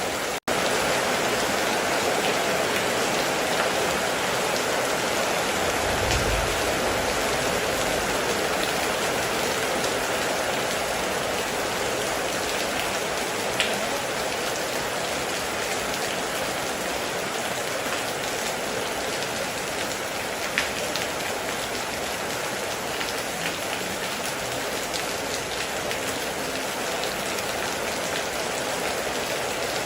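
Steady heavy rain pouring onto a surface, with a few sharper drop ticks standing out. A brief low rumble comes about six seconds in.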